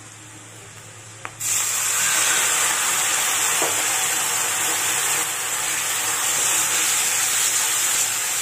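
Chopped tomatoes going into hot oil and fried onions in a kadhai: after a light tap, a loud sizzle starts suddenly about a second and a half in and keeps on steadily.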